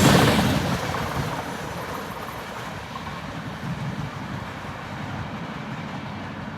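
Freight train cars rolling past on the rails. The wheel clatter fades over the first second or so and settles into a steady, lower rumble as the train draws away.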